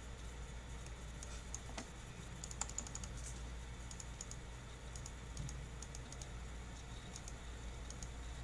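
Computer keyboard typing: irregular runs of light key clicks, with a steady low hum underneath.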